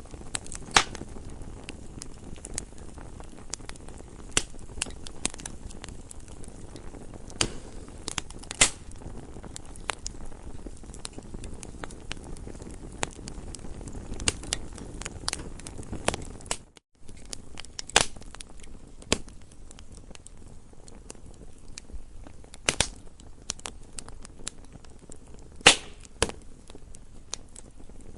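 Wood campfire crackling: irregular sharp pops and snaps over a low, steady rush of burning, with a few louder cracks. The sound cuts out for a split second about two-thirds of the way through.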